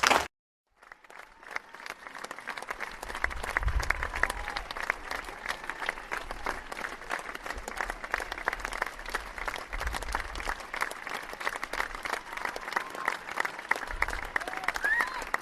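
A crowd applauding: many people clapping in a dense, steady patter that fades in after a brief silence near the start, with a few faint voices now and then.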